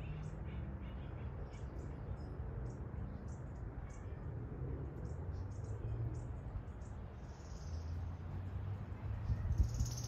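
Small birds chirping in short, scattered high-pitched notes, with a couple of longer notes near the end, over a steady low background rumble.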